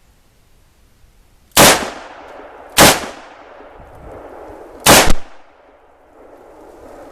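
Rossi .357 Magnum revolver firing full-power .357 Magnum rounds: three sharp shots, the first about a second and a half in, then about a second and two seconds apart, each trailing off in an echo.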